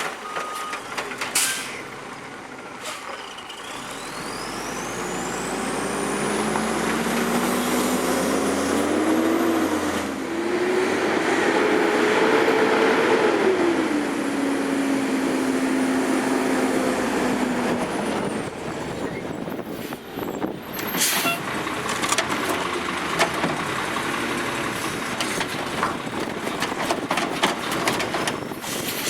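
Garbage truck engine revving up over several seconds and settling back down, with short sharp air-brake hisses near the start and again about two-thirds of the way through.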